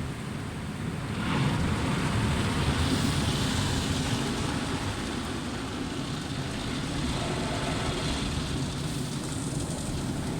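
Car wash heard from inside the car's cabin: a steady rushing wash noise with a low rumble, which grows louder about a second in.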